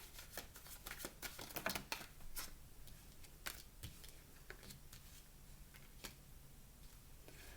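Tarot cards being shuffled and handled: faint, quick clicks, busiest in the first two seconds or so, then thinning out.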